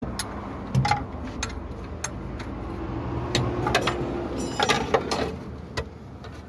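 Scattered sharp clicks and knocks, like work on an engine, over a steady low mechanical hum.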